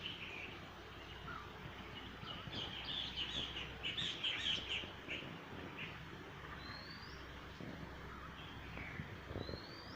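Small birds chirping, with a dense flurry of quick high chirps in the middle, then two rising whistled notes a few seconds apart near the end, over a low steady background rumble.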